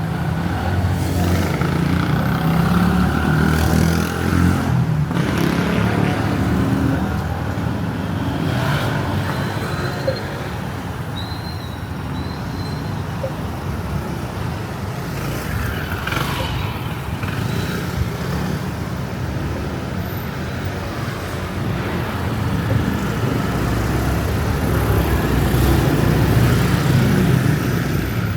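Street traffic: vehicle engines running and passing close by, loudest at the start and again near the end. A few short high tones come through around the middle.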